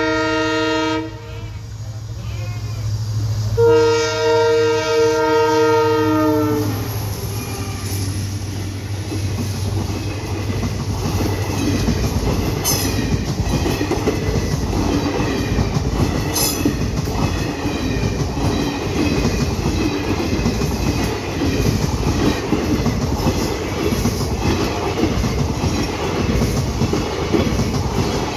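Passenger train's horn sounding twice as it approaches: a short blast at the start and a longer blast of about three seconds beginning about three and a half seconds in. After that come the coaches running past with a steady rumble and the clacking of wheels over the rail joints.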